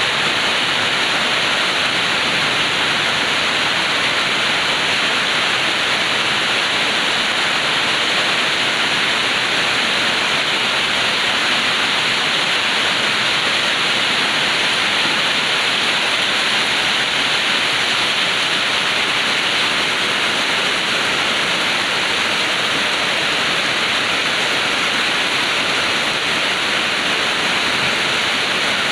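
Heavy rain pouring down steadily, a dense even hiss that never lets up.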